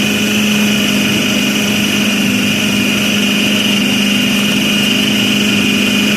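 Electric food chopper running steadily at one speed, its motor holding a constant hum and high whine as it grinds mutton mince with onion, green chillies and spices into a smooth seekh kabab paste.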